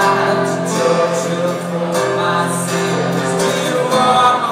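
Live acoustic rock music: a passage of sustained chords with no clear lyrics, the chord changing about two seconds in.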